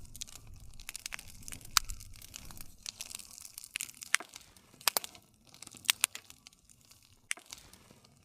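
Wood campfire crackling, with sharp irregular pops over the soft low rumble of the flames. The loudest pops come about two seconds in and around five and six seconds in.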